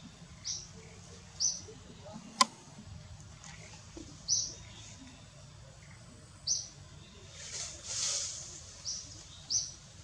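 Short high chirps repeating every second or two, typical of a small bird calling, with one sharp click about two and a half seconds in and a brief rustle near the end.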